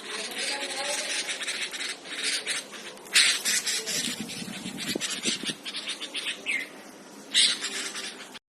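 Bulbul chicks in the nest chirping rapidly and continuously, with louder bursts about three seconds in and again near the end.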